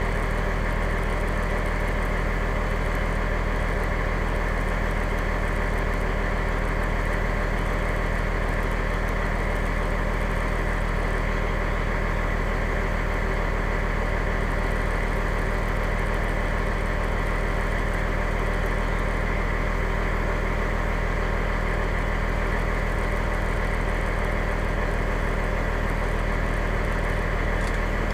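Fire engine's engine running steadily, a constant drone heard from inside the cab.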